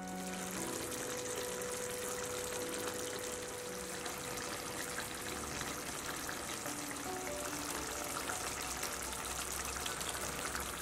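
Chicken pieces in spice masala sizzling and crackling steadily in a pan as their juices cook, with soft background music holding a few long notes.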